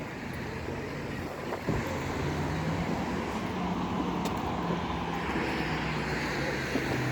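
Motor vehicle engine running with a steady low hum over traffic noise, its pitch dipping slightly near the end.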